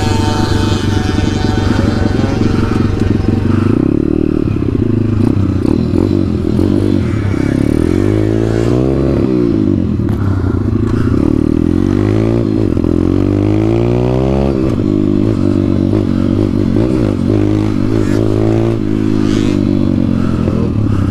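Small dirt-bike engine running under throttle, its pitch rising and falling several times as it is revved and ridden through the gears.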